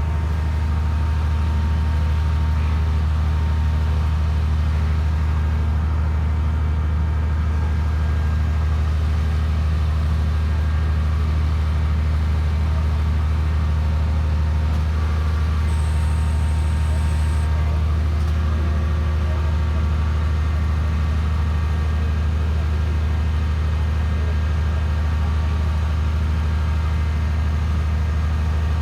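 Hydraulic static pile-driving machine's power unit running with a steady, deep, even hum.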